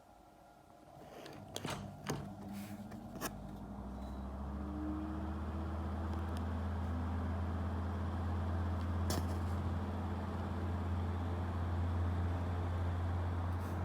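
Mitsubishi 25 cm kitchen ventilation fan switched on with a few clicks of its pull-cord switch, then the motor spinning up over a few seconds and running steadily with a low hum and a rush of air.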